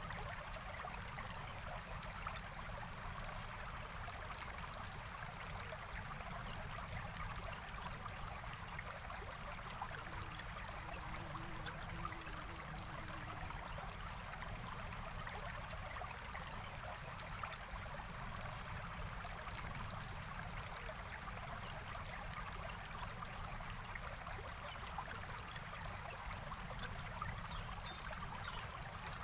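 Small forest stream flowing steadily, an even rush of water, with faint scattered crackles from a campfire.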